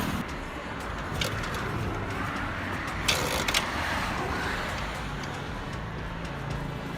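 Steady motor-vehicle noise with a few sharp clicks, and a faint low steady hum coming in during the second half.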